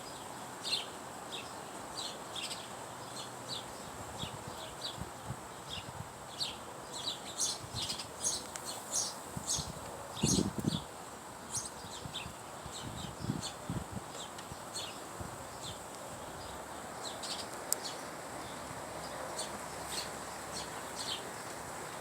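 Small backyard songbirds chirping: many short, high chirps repeating throughout, with a few low soft thuds about ten and thirteen seconds in.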